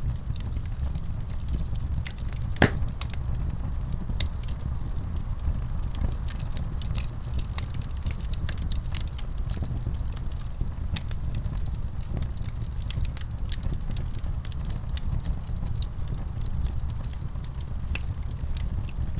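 Wood fire burning, with a steady low rumble and many sharp crackles and pops, one louder pop about two and a half seconds in.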